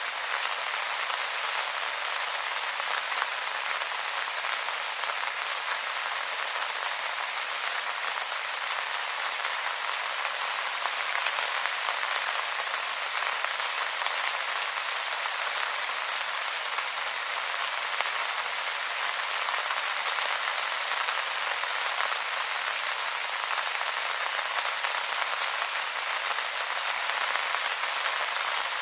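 Steady rain falling on wet leaves: an even hiss of many small drop patters, with no change in intensity.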